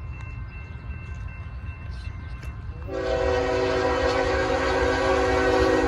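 Diesel locomotive air horn sounding one long chord that starts about three seconds in and holds, over the low rumble of the approaching train.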